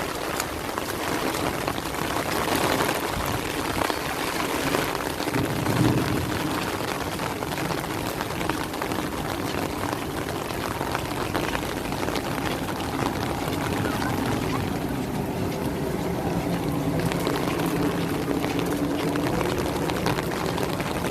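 Steady rain falling and splashing, with water pouring.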